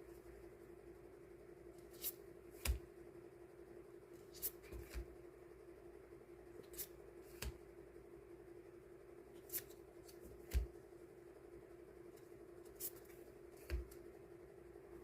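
Die-cut sticker sheets being handled and sorted into small packs: scattered light taps and paper rustles, a dozen or so in all, some in quick pairs, over a steady low hum.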